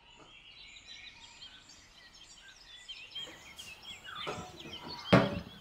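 Small birds chirping in quick short calls in the background. About five seconds in, one sudden loud clatter.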